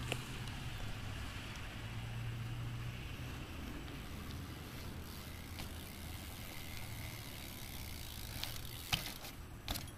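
BMX bike rolling on asphalt, its rear hub ticking, over a low steady rumble, with two sharp knocks near the end.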